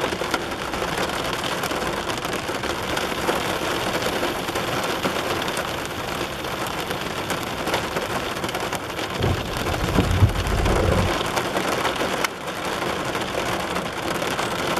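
Rain falling steadily on a car's roof and windshield, heard from inside the car. A low rumble lasts about two seconds just past the middle.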